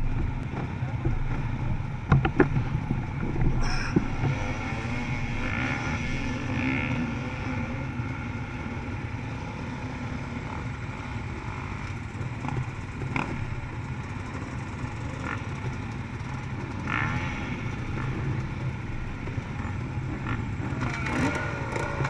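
Dirt bike engine running steadily, with a few short knocks and clatters.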